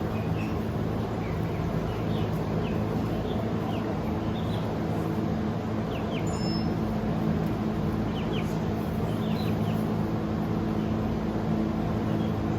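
A steady low machine hum with small birds chirping now and then, in short quick notes.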